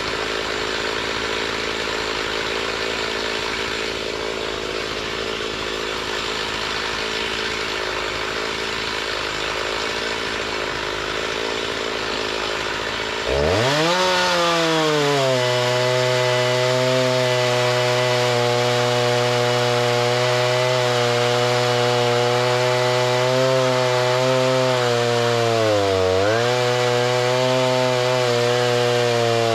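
Gas chainsaw running while cutting lumber, its engine note steady. About halfway through it turns abruptly louder and rises in pitch, then holds high, sagging briefly twice near the end as it takes the load.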